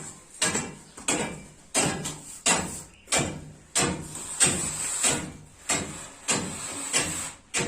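Repeated blows of a hand tool chipping out old flooring, about one and a half sharp strikes a second at a steady pace.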